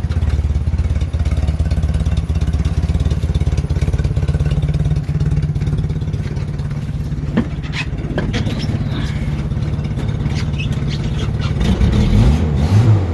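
Renault Dauphine's small four-cylinder engine idling steadily through its exhaust. A few sharp clicks come about halfway through, and near the end the engine is blipped in several short revs that rise and fall.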